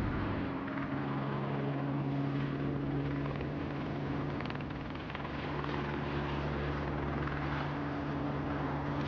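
An engine running steadily, a low drone with a constant pitch.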